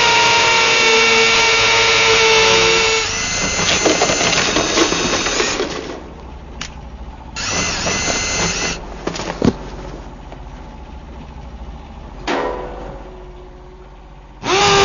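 Electric drill running with a steady high whine, turning rougher and wavering after about three seconds and stopping near six seconds. Then it is triggered in several short bursts, the last near the end.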